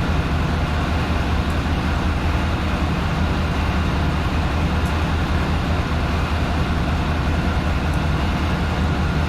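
Steady low rumble of a train's diesel engine idling.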